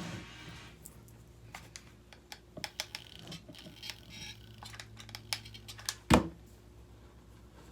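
Light handling sounds of rope being pressed and glued onto a pot: scattered small clicks and taps, with one loud knock about six seconds in.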